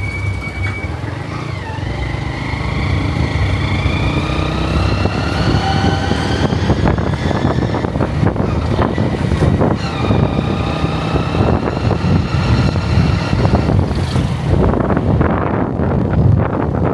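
Motorcycle engine running under way, rising in pitch as it accelerates, with a change of pitch about ten seconds in. Wind rumbles on the microphone near the end.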